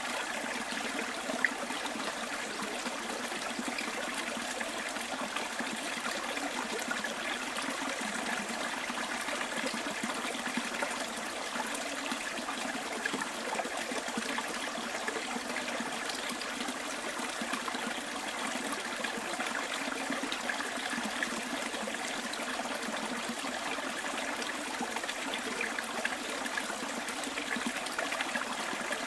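Small bush stream trickling and babbling steadily. There is a single sharp click about a second and a half in.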